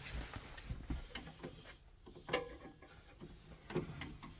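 Faint scattered clicks and light knocks of small boiler parts and tools being handled, with a couple of sharper knocks about two and four seconds in.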